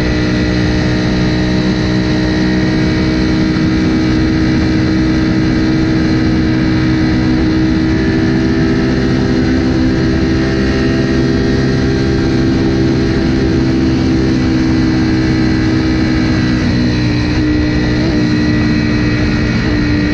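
Ducati Panigale V4R's 998 cc V4 engine with an Akrapovic exhaust, held at steady high revs in sixth gear at highway speed, with wind rush over the bike.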